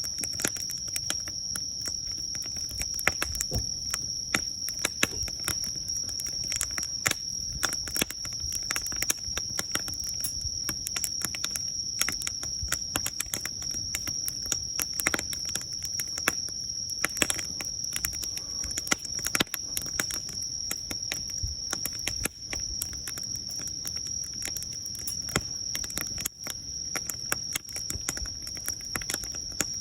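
Wood fire crackling, with frequent sharp pops and snaps, over a steady high-pitched insect trill.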